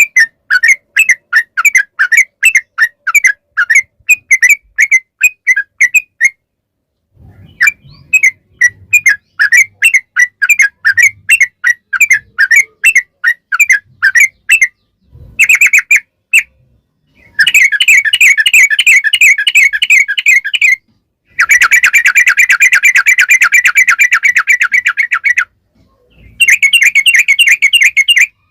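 Yellow-vented bulbul (trucukan) song: long runs of quick, repeated chirping notes, about three or four a second at first. The song breaks off briefly between runs. From about 17 seconds in, the runs turn into fast, dense trills, the long rattling 'ropel' phrasing.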